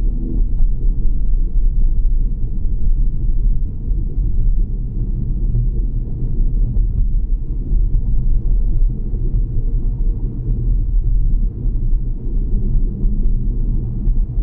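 Steady low rumble of a car driving along a road, with no distinct events standing out.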